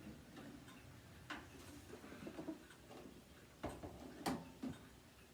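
Handling noise from a vintage Kenmore electric space heater being moved and turned over: a few light knocks and clicks, the loudest a little over a second in and again about four seconds in.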